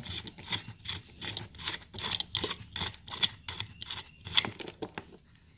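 A run of irregular light clicks and scrapes, a small object being handled on the chair, with no steady rhythm.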